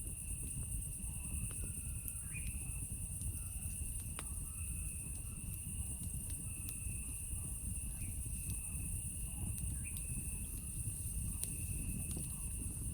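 Campfire crackling with sparse, scattered pops over a steady chorus of night insects: one very high continuous trill and a lower trill that breaks off briefly a few times.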